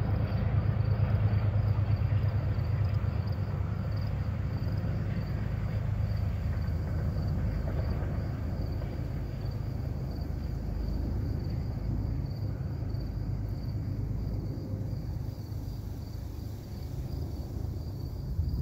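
Distant train passing on the riverside tracks far below: a low, steady rumble that is strongest at first and slowly fades.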